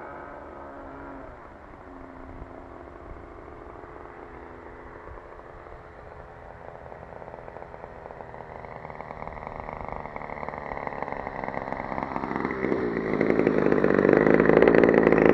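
RCGF 20cc single-cylinder two-stroke petrol engine on a radio-controlled model plane, running steadily and growing louder over the second half as the plane draws closer, loudest near the end.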